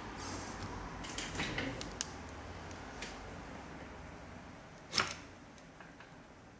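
Small parts of a netbook being handled: light clicks and rustles of plastic and metal, with one sharper click about five seconds in.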